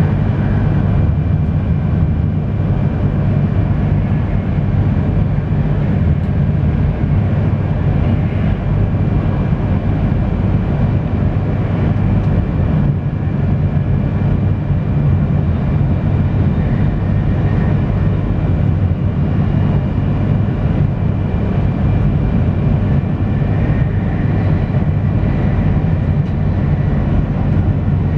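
Steady running noise inside the passenger cabin of a JR East E3 series Shinkansen travelling at speed. A loud, even low rumble runs throughout, with a faint steady whine above it.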